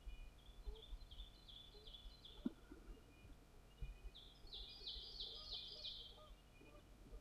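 A songbird singing two short phrases of quickly repeated notes, the second louder, over a faint low rumble, with one light click between them.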